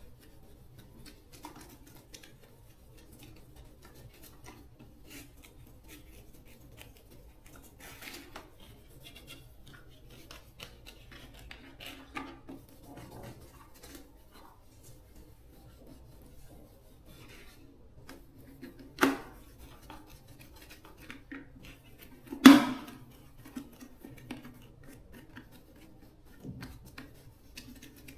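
Intermittent small clicks and light scraping of hand work on parts, with two sharper knocks a few seconds apart in the last third.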